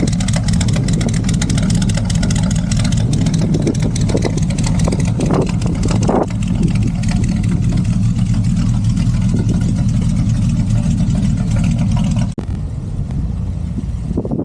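Classic car engine running loudly and steadily with a deep, pulsing note; the sound drops abruptly to a quieter level about twelve seconds in.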